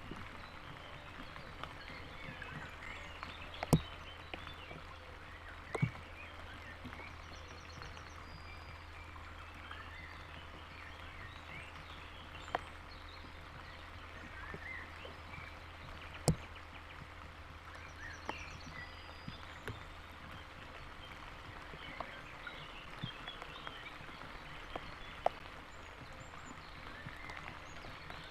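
Steady rain falling, with single heavy drops striking close to the microphone every few seconds as sharp clicks, over frogs croaking. A low hum stops about three quarters of the way through.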